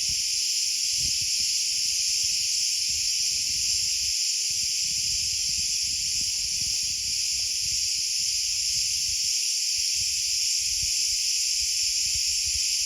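A steady, unbroken chorus of insects chirring high, with low irregular rumbles of wind on the microphone beneath.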